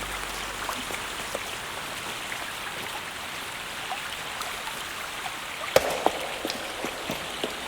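Steady noise like rain or running water, with scattered small taps and clicks; two sharper taps come about six seconds in.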